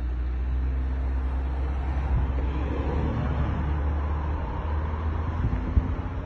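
Road and engine noise inside a moving car's cabin: a steady low rumble with tyre hiss, with a few irregular low thumps creeping in near the end.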